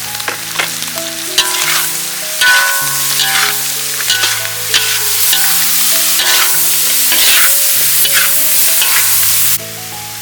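Food being stir-fried in a hot pan: loud, steady sizzling with repeated scrapes of a spatula stirring, cutting off suddenly near the end.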